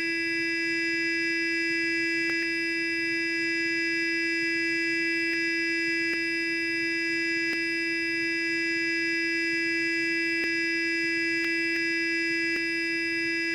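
Sonic electric toothbrush buzzing continuously: one steady, unchanging hum with a bright, buzzy edge. A few faint ticks come through now and then.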